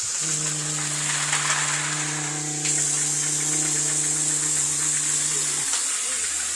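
Small electric motor of a battery-powered Geo Trax toy train running with a steady hum over a high hiss, stopping about a second before the end.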